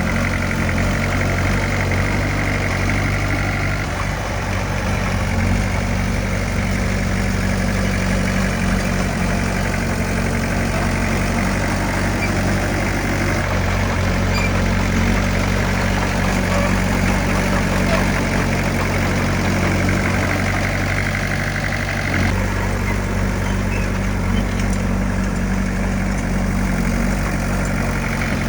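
Diesel engine of heavy earthmoving equipment running steadily, its note changing slightly about four seconds in and again near the end.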